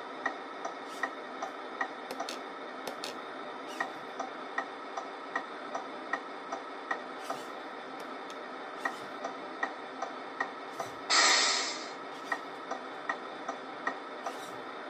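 The MFC-03 sound unit in a Tamiya Scania 770S RC truck plays an indicator ticking about two and a half times a second over a steady simulated engine idle. About eleven seconds in comes a loud hiss lasting under a second.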